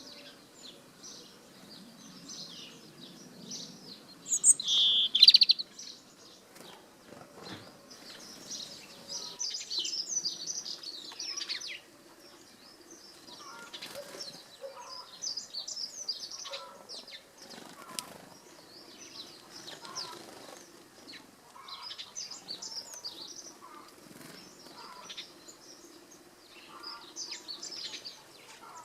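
European robin singing close by in short high, tinkling phrases repeated every couple of seconds, with a loud brief burst of sound about four to five seconds in.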